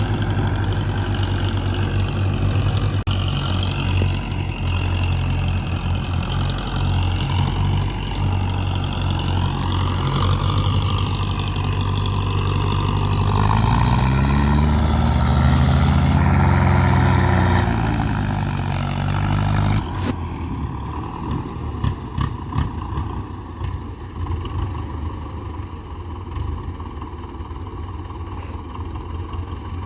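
Diesel tractor engine running hard, revving up about halfway through and dropping back about two thirds of the way in, then running on at a lower, rougher note.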